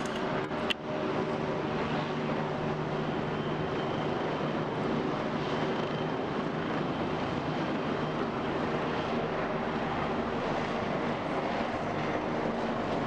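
Helicopter engine and rotor running steadily, a continuous drone with a faint low hum. A sharp click comes under a second in.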